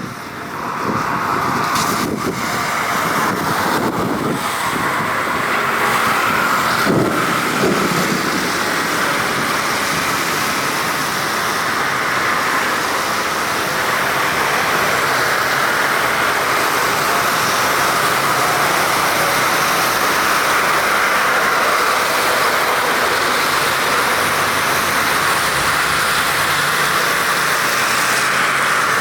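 Airbus A330-900neo jet airliner's engines, a steady loud roar as the aircraft lands on a wet runway.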